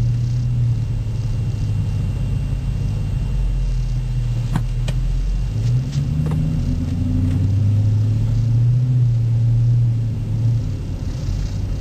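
2008 Dodge Charger R/T's 5.7-litre Hemi V8 running through a Zoomers aftermarket exhaust, heard from inside the cabin while driving: a steady low exhaust drone. The engine note shifts and glides about halfway through, then holds steady. A few light clicks come near the middle.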